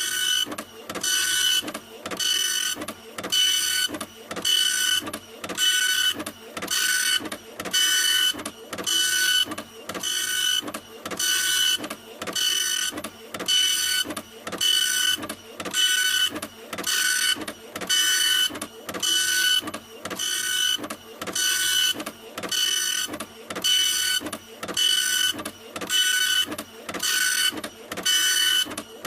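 Printer running continuously, its mechanism whirring back and forth in an even rhythm of about one stroke a second, each stroke a whine.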